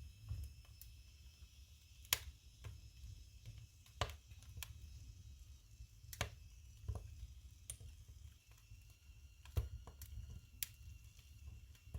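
Firewood burning in a wood stove: irregular sharp crackles and pops over a low, steady rumble of the fire, with the loudest pops about two seconds in and again near the ten-second mark.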